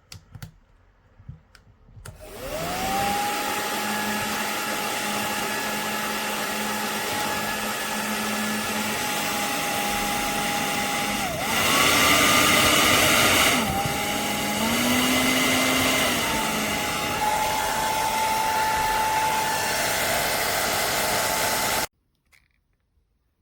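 Remington Thermacare PRO 2300 hair dryer switched on, its motor whine rising as it spins up, then running with a steady airy rush. Twice the whine steps up in pitch for a couple of seconds, louder and hissier the first time, as the setting is changed, before the dryer stops abruptly near the end.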